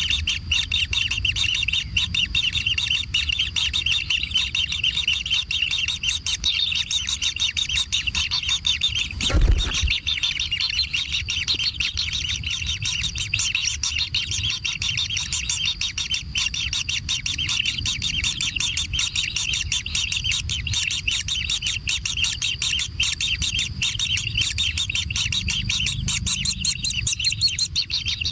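Kingfisher nestlings chirping continuously in rapid, high, overlapping calls, the begging of chicks being fed. A single dull thump comes about nine seconds in.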